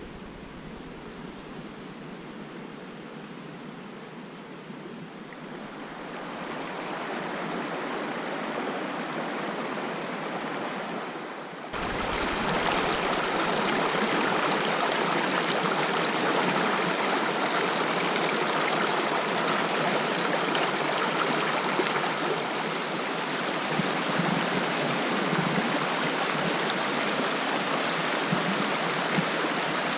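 Running water, a steady rushing like a stream; it grows a little louder, then turns suddenly louder about twelve seconds in and stays steady.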